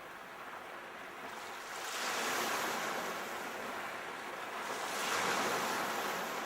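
Sea waves washing ashore in surf, swelling louder twice: once about two seconds in and again about five seconds in.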